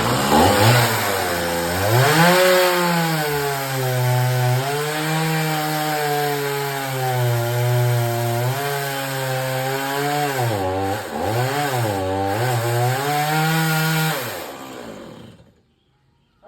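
Two-stroke chainsaw running hard and cutting wood, its engine pitch sagging and recovering as the chain bites, with several deep dips about ten to twelve seconds in. The engine note falls away near the end and goes silent.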